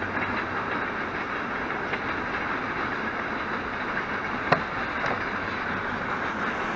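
Freight train rolling past at a distance: a steady noise of wheels on rails, with a few sharp clicks, the loudest about four and a half seconds in.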